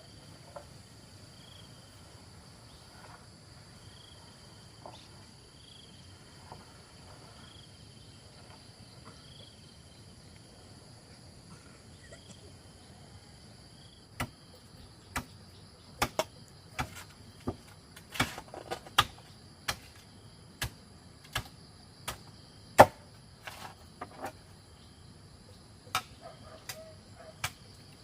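Insects singing steadily, with a short chirp repeating about every second and a half. From about halfway through, a run of sharp, irregular knocks begins, the loudest of them near the end.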